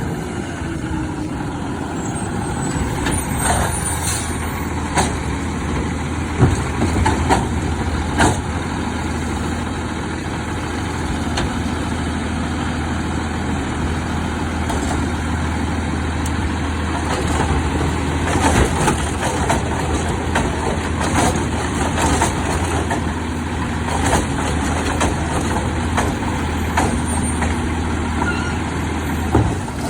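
Autocar split-body garbage truck's engine running steadily, with repeated sharp clanks and knocks over it.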